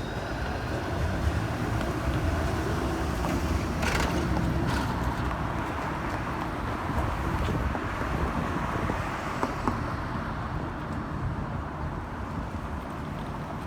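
City street traffic going by, with wind rumbling on the microphone. A passing vehicle swells to its loudest a few seconds in and then fades.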